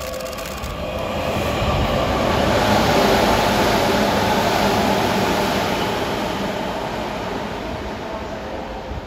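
Tokyu 9000 series electric train running through a station at high speed without stopping: wheel and motor rumble swelling to its loudest about three seconds in, then fading as the train pulls away.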